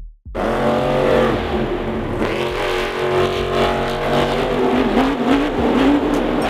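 Monster truck engine running loud and revving, the pitch shifting as it works; it cuts in suddenly about a third of a second in.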